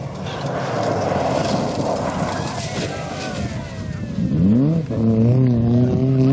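Rally car engine accelerating hard. After a few seconds of unpitched rumble, its pitch climbs steeply, drops sharply at a gear change about five seconds in, then climbs steadily again.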